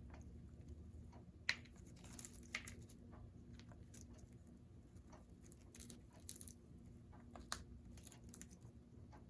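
Congo African grey parrot biting and tearing at a chew toy: faint, irregular crunches and crinkling, with a few sharper snaps, the loudest about a second and a half in.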